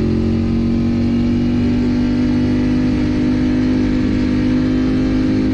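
Motorcycle engine running hard at high revs. Its pitch holds nearly steady and creeps slightly upward.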